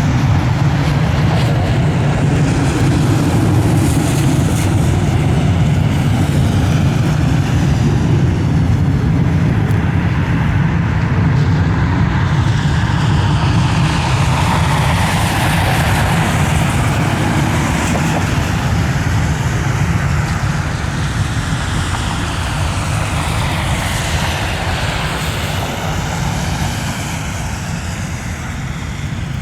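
Boeing 737 jetliner's engines running at high power as it rolls along the wet runway, with a sweeping, shifting rush as it passes; the sound eases off gradually over the last ten seconds.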